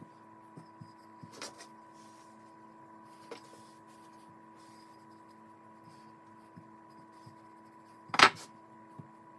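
Puff pastry being rolled by hand on a floured work surface: scattered light knocks and taps of the rolling pin over a steady electrical hum, with one loud knock about eight seconds in.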